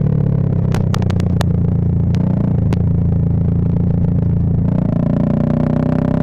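Bajaj Pulsar 220F's single-cylinder engine running through a Race Concepts full-system exhaust on the move, holding a steady note, then climbing in pitch from about five seconds in as it accelerates. A few sharp clicks sound in the first three seconds.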